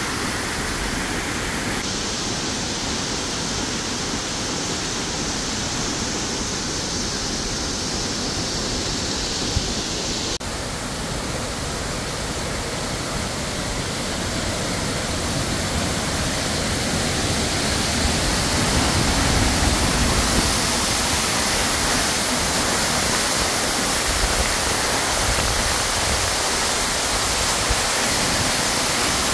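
Tortum Waterfall's falling water rushing in a steady, even roar, growing louder in the second half.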